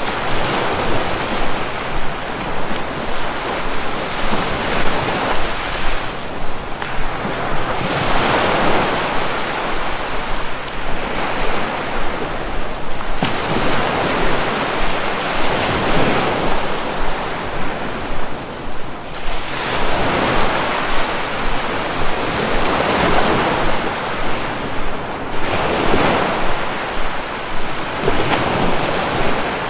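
Sea waves breaking and washing in, the surf swelling and fading in a steady rhythm about every three to four seconds.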